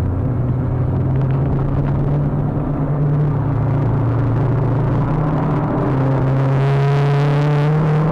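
Renault Clio Trophy 182's 2.0-litre four-cylinder engine under load, heard from inside the cabin. Its pitch climbs, drops at a gear change about six seconds in, then climbs again.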